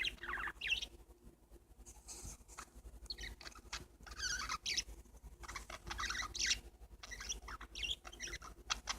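Pet parakeets chirping and chattering in quick, warbling bursts, mixed with small sharp clicks.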